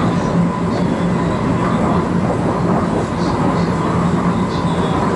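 Shinkansen bullet train running, heard from inside the car's vestibule: a steady, loud rumble and hiss with a low hum underneath.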